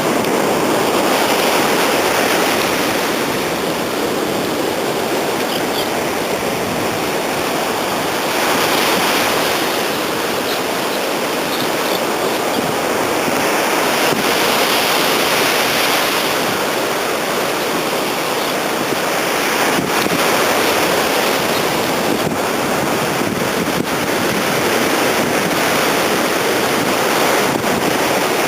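Strong wind blowing across the microphone over a steady rush of sea surf.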